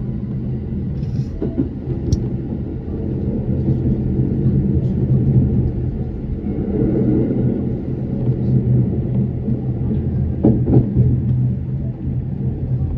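Electric train running noise heard from inside the train: a steady low rumble with an even hum underneath, and a few sharp clicks from the wheels, twice near the start and a pair a couple of seconds before the end.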